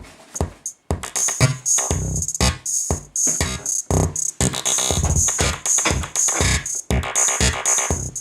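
KORG Kaossilator handheld synthesizer playing a drum-machine beat with synth tones, starting about a second in after a brief pause and repeating in a steady rhythm.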